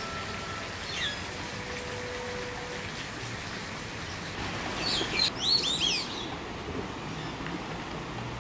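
Small birds calling over a steady hiss of background noise. A single high chirp comes about a second in, then a quick run of several high, downward-sliding chirps at about five to six seconds in.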